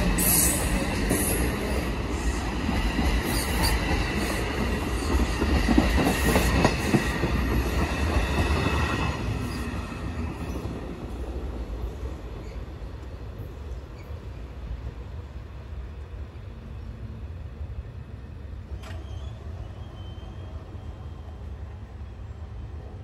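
Passenger train moving through the station: a steady rumble with high-pitched wheel squeal over the first nine seconds or so, after which the squeal stops and the rumble fades to a low, steady noise.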